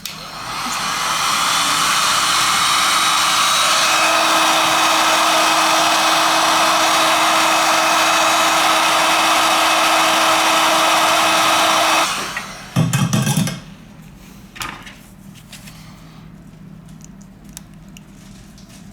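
A hot-air tool, such as a heat gun or hot-air station, blowing steadily. It comes up to full speed over the first couple of seconds and cuts off abruptly about twelve seconds in. A short loud rumble follows about a second later.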